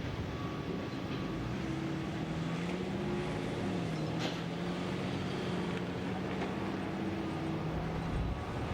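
A large engine running, its pitch rising over the first few seconds, dropping a little before halfway, then holding steady. A single sharp click sounds a little before halfway.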